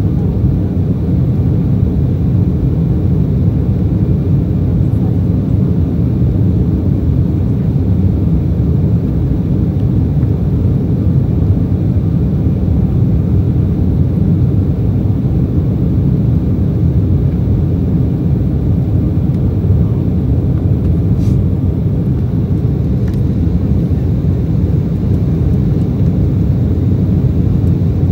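Steady, loud low rumble of jet engine and airflow noise heard inside the passenger cabin of an Embraer E190 airliner, with its GE CF34 turbofans running at a constant setting.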